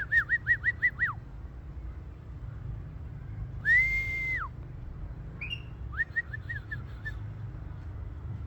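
Indian ringneck parakeet whistling: a run of about seven quick up-and-down notes, then one long level whistle that rises in and drops away, then a fainter, quicker run of short notes, over a low steady hum.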